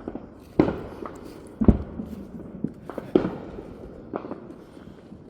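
Fireworks and firecrackers going off around the neighbourhood: a string of separate bangs, three loud ones about half a second, a second and a half, and three seconds in, with fainter pops between.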